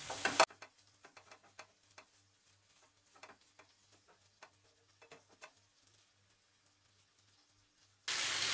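Near silence with a few scattered faint ticks. About eight seconds in, the steady sizzle of food frying in a pan cuts in suddenly.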